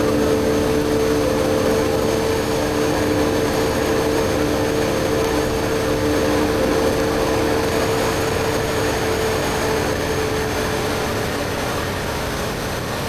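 BMW R1250GS Adventure's boxer twin through an Akrapovic slip-on exhaust, running at a steady cruise under a continuous rush of noise. The engine note holds at one pitch, then fades near the end as the overall level eases.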